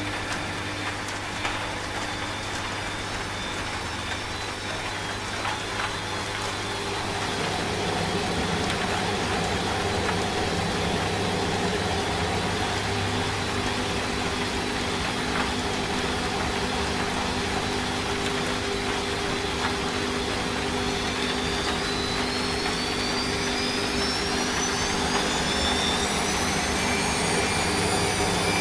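Washing machine running, a steady hum over an even hiss of rain; it grows louder about seven seconds in. From about twenty seconds a whine climbs steadily in pitch as the drum speeds up toward the spin.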